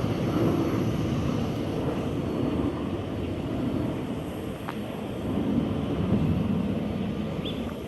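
Jet airliner engine noise around an airport: a steady low rumble that swells and eases over a few seconds.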